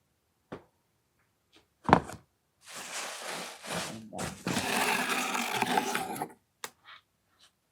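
Packing being handled: a sharp knock about two seconds in, then a few seconds of rustling of packing material as plastic parts bins are taken out of the box, ending with a small click.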